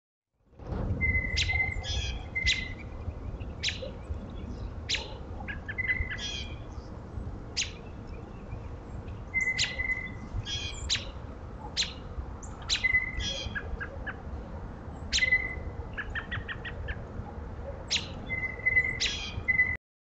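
Small birds calling over and over: sharp, high chip notes and short held notes, some of them buzzy, scattered through the whole stretch, over a steady low rumble. The sound starts about half a second in and cuts off just before the end.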